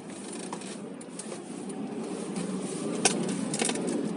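Ford car driving, its engine and tyre noise heard from inside the cabin and growing slowly louder as it gathers speed. A few sharp clicks come about three seconds in.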